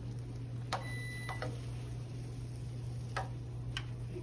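A short electronic beep about a second in, over a steady low hum, with a few light clicks.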